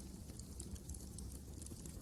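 Wood fire crackling: a steady low rumble of burning with scattered small, sharp crackles.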